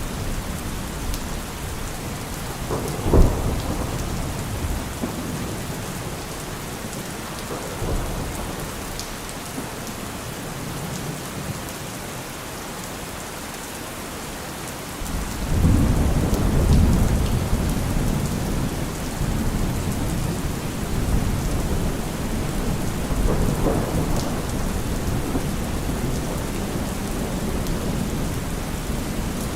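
Heavy rain falling steadily on a car roof, with a sharp thunderclap about three seconds in and a lower crack near eight seconds. About halfway through, a loud, low thunder rumble sets in and slowly fades, swelling again briefly near the end.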